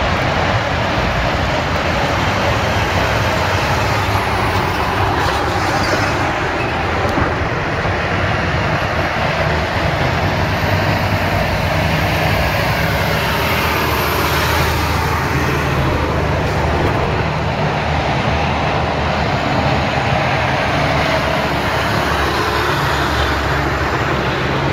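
Steady road-vehicle noise: a continuous rush of engine and tyre sound with a low hum underneath.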